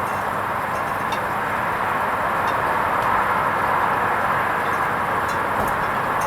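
Hoover Vision HVP16 washing machine running its wool rinse programme: a steady, even hiss with a few faint clicks.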